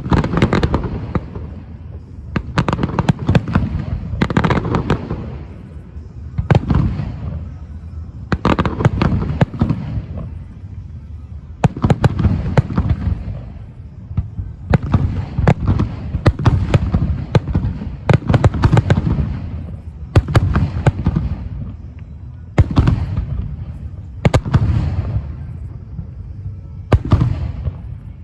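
Aerial fireworks bursting in rapid volleys: clusters of sharp cracks over a deep rumbling boom that dies away, wave after wave about every two seconds.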